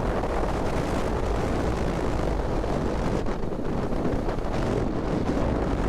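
Steady wind rush buffeting the microphone, mixed with road and engine noise from a motorcycle being ridden.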